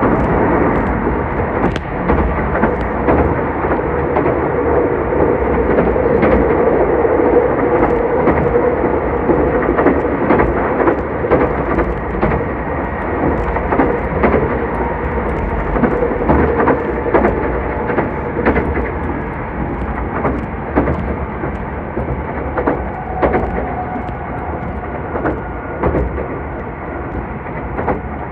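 Meitetsu 2000 series μSKY electric train running at speed, heard from inside the car: a steady rumble of wheels on rail, with scattered clicks and knocks and a faint steady whine.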